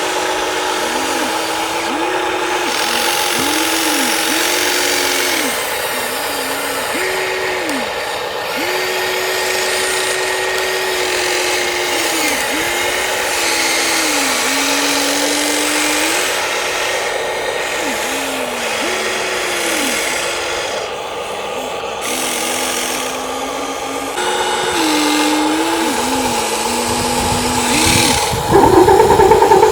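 Small electric motors of radio-controlled construction models whining, the pitch rising and falling as the motors start, run and stop in short bursts every second or two. Near the end a louder, rougher motor sound comes in.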